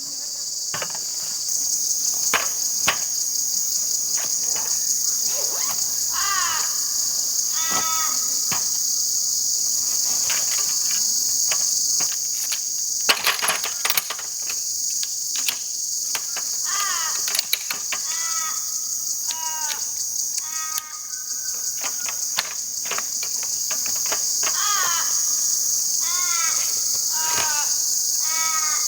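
Steady high-pitched insect chorus with a bird calling over it in repeated runs of short chirping notes, and scattered light clicks and knocks.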